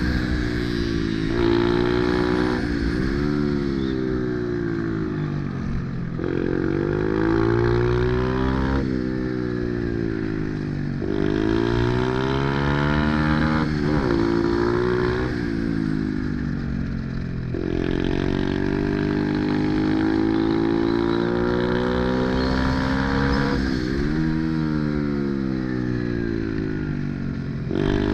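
Pit bike engine being ridden hard. Its pitch climbs again and again as it revs through the gears, then drops sharply at shifts and eases down as it slows, repeating every few seconds.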